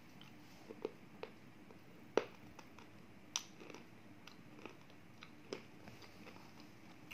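Crisp, irregular crunches and cracks of a slate pencil coated in roasted clay being bitten and chewed. The loudest crack comes about two seconds in, with others around three and a half and five and a half seconds.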